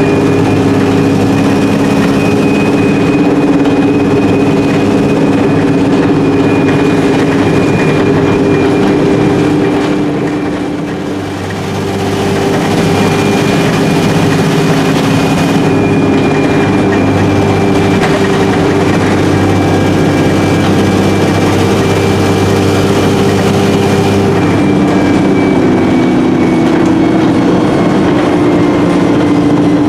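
Alexander Dennis Enviro300 single-deck bus on the move, heard from inside the saloon: the diesel engine runs steadily under load with a thin high whine from the Voith four-speed automatic gearbox. About eleven seconds in the engine eases off briefly, then pulls again.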